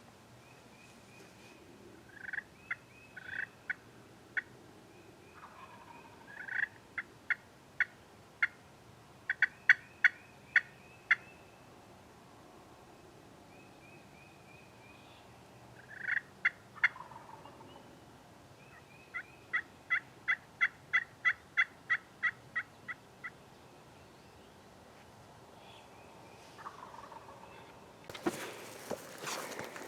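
Wild turkey gobblers gobbling several times, each gobble a loud burst that trails off downward. Between the gobbles come runs of short, sharp, evenly spaced calls, one run of about a dozen notes.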